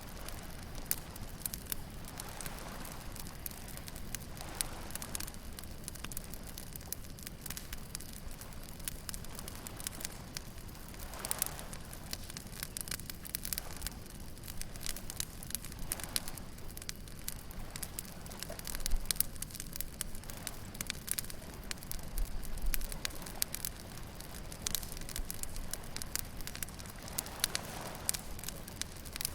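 Wood bonfire crackling, with irregular sharp pops and snaps, over a steady wash of waves breaking on a beach.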